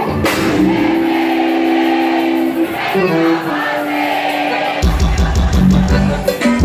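Live band music: held sustained notes, then drums and bass come in about five seconds in.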